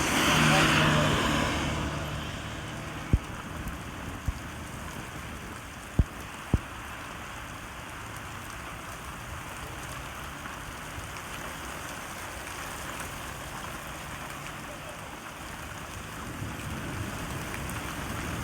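Steady rain falling, an even hiss, with a louder swell carrying a low hum that fades over the first two seconds. Four sharp clicks or knocks are heard a few seconds in.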